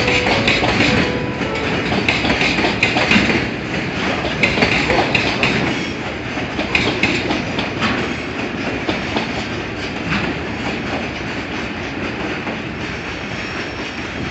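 Train running past, its wheels clicking over the rail joints in a steady rumble, loudest in the first few seconds.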